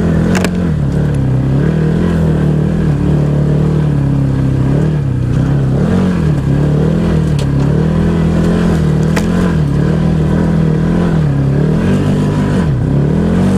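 Can-Am Maverick XMR 1000 side-by-side's V-twin engine climbing a steep, rough trail, its pitch rising and falling every second or two as the throttle is worked on and off. A couple of sharp clicks sound over it, near the start and about nine seconds in.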